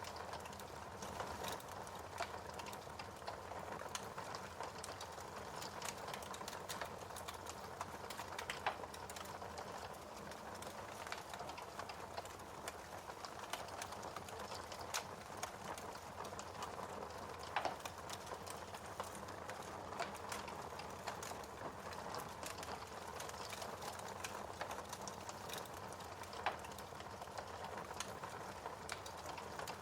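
Wood fire crackling in a fireplace: a soft steady hiss with frequent small sharp pops and a few louder snaps scattered through.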